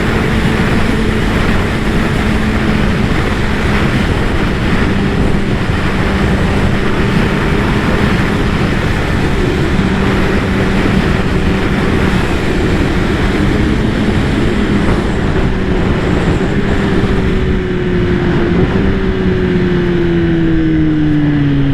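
Kawasaki ZX-10R inline-four engine running at a steady cruise under heavy wind rush, its pitch falling over the last few seconds as the bike slows.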